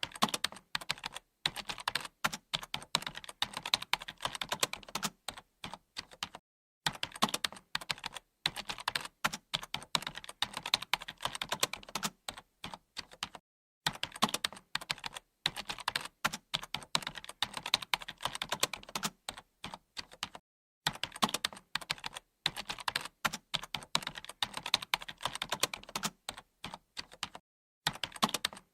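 Computer keyboard typing: fast, continuous key clicks, with short complete pauses every few seconds.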